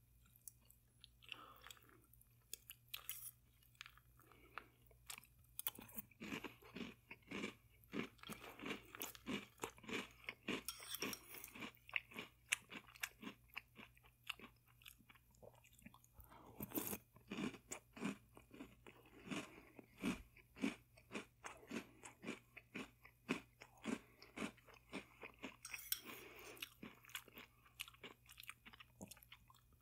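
Close-up chewing and crunching of chocolate cereal balls in milk: a few scattered crunches at first, then a quick, steady run of crunchy chews from about six seconds in.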